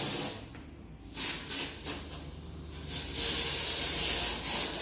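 Air hissing through a duct-cleaning hose, first in several short bursts, then steadily for the last second or two.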